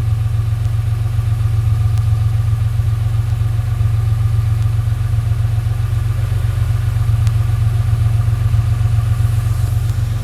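Chevrolet Opala's 4.1-litre gasoline straight-six with 6-into-2 headers idling steadily at the exhaust on its first start of the day, a cold start; the engine runs smooth and well tuned.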